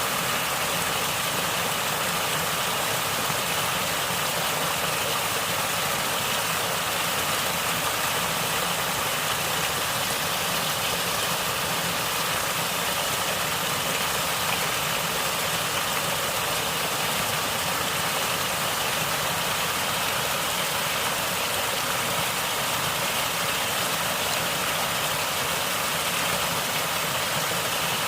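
Natural stream water flowing and gurgling, a steady, even rush of water.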